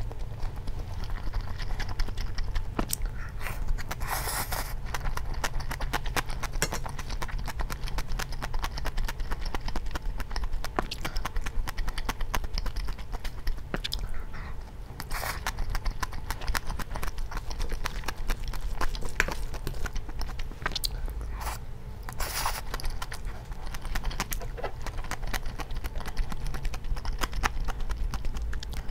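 Close-miked eating sounds: a person chewing mouthfuls of bibimbap and soft-tofu ramen, with rapid wet clicks throughout. A few short, louder mouth sounds come about 4, 15 and 22 seconds in.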